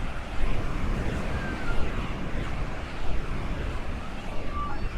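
Ocean surf washing along the beach, under a steady rumble of wind on the microphone that rises and falls in gusts.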